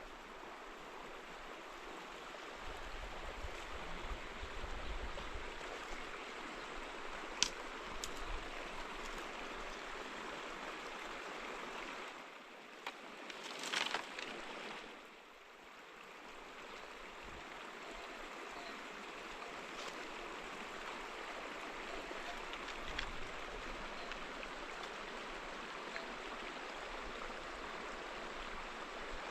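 Steady rushing of running water, broken by a few short clicks and a brief louder splash about halfway through.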